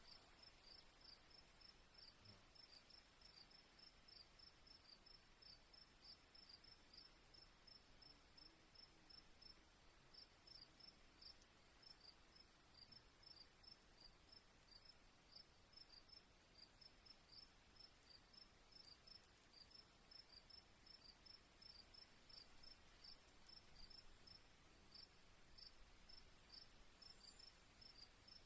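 Faint crickets: one steady high-pitched trill, with a quick, regular chirping beneath it.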